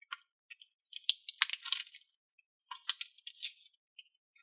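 Small clicks, taps and crinkling from hands handling small containers and packaging, in two short flurries about a second in and about three seconds in.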